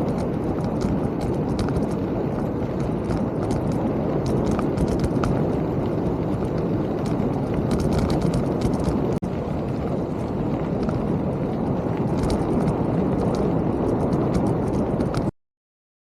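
Mountain bike riding over a rough trail: a steady rumble of tyres with frequent rattling clicks and knocks from the bike. The sound cuts off abruptly near the end.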